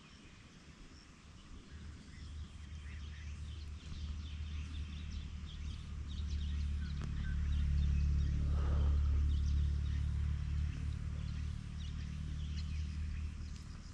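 Small birds chirping and calling over a low hum that swells through the middle and then eases off.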